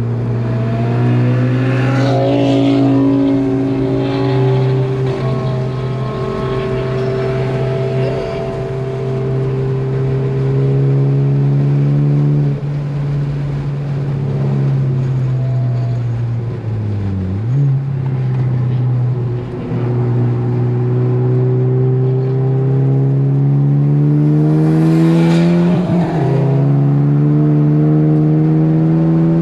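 Ford Focus ST's turbocharged four-cylinder engine pulling hard on track, its pitch climbing slowly under throttle, falling away when the driver lifts about twelve seconds in, dipping and jumping back up around a gear change a few seconds later, then climbing again in a long pull to the end. Two short rushes of noise, about two seconds in and near the end, sit over the engine.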